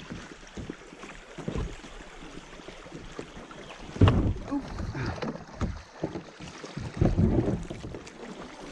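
Kayak running small river rapids: rushing, splashing water against the hull and paddle, with irregular knocks and a loud splashing surge about four seconds in and another around seven seconds.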